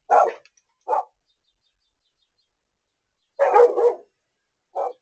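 A dog barking in separate barks: one at the start, another about a second in, a quick run of barks at about three and a half seconds, and a single bark near the end, picked up by a video doorbell's microphone.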